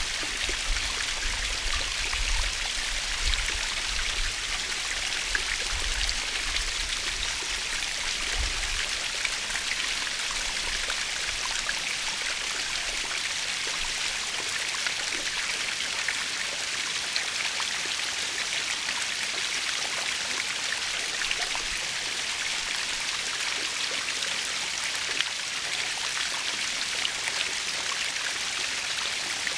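Natural waterfall: water falling and splashing in a steady, even hiss. A low rumble sits under it at first and fades out about a third of the way in.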